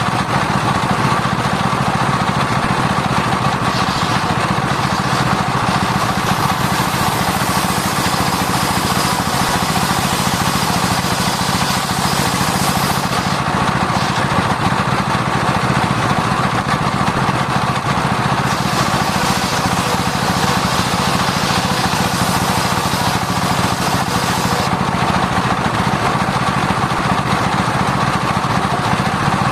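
Sawmill circular saw running steadily, sawing sengon (albizia) timber, with a continuous mechanical drone. The high hiss eases off for a few seconds about halfway through and again near the end.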